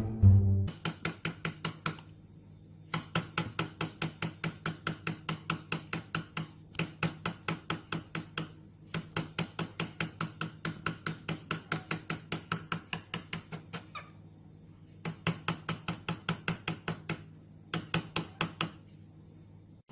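Rapid, evenly spaced tapping, about five or six taps a second, in runs of one to three seconds with short pauses between.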